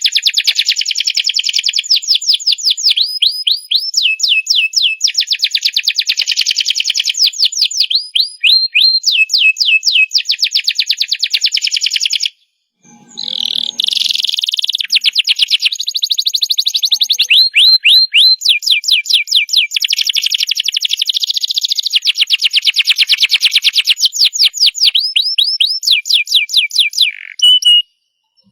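Domestic canary singing a long song of rapid trills: each phrase is a fast run of repeated notes, and the pitch and pattern change every second or two. The song stops for about half a second roughly twelve seconds in, then carries on.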